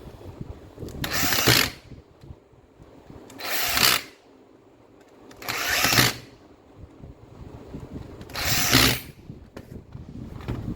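Makita M9510 angle grinder briefly switched on four times, each run lasting under a second: the motor spins up, growing louder, then is cut off. Light handling clatter between the runs.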